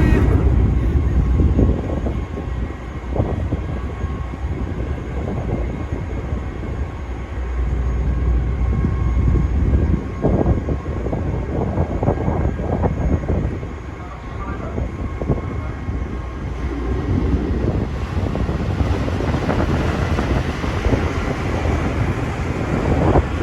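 Steady low rumble of the ferry New Awashima's engines as it comes in to berth, with faint steady machinery tones above it. Wind buffets the microphone in gusts.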